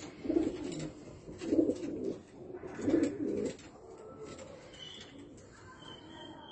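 Homing pigeons cooing: three short coo phrases in the first few seconds, then quieter, with two faint thin high notes near the end.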